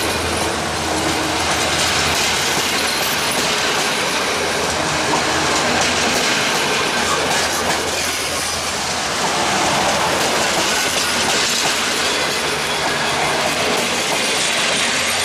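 Passenger coaches rolling past close by, their wheels clattering steadily over the rail joints.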